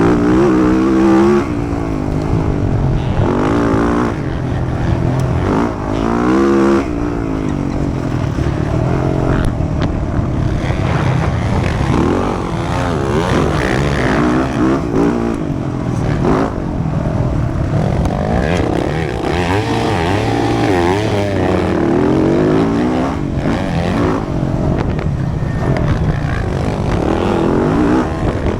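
Motocross dirt bike engine revving hard, its pitch climbing and dropping again and again as the throttle opens and closes through the gears.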